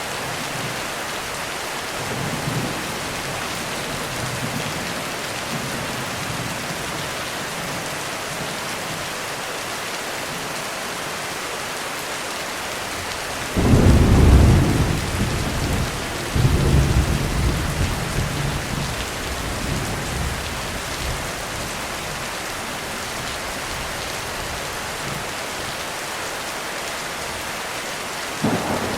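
Steady heavy rain with thunder: a sudden loud thunderclap about halfway through, a second rumble a few seconds later that fades out slowly, and a brief crack of thunder near the end.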